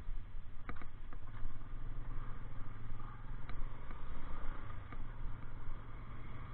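Motorcycle engine running at a steady low hum, with a few light clicks over it.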